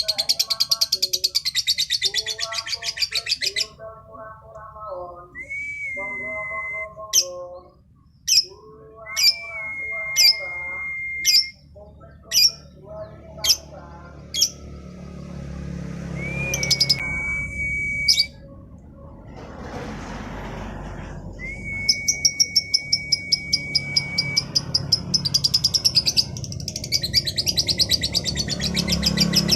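Female lovebird singing: fast rattling chatter trills, lower warbling notes and sharp high chirps, broken by several long, level whistles that each begin with a short upward flick.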